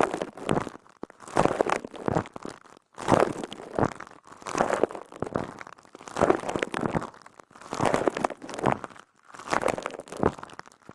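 A squelchy, crispy sponge squeezed over and over, each squeeze a crackling, crunchy burst, about one every second and a half.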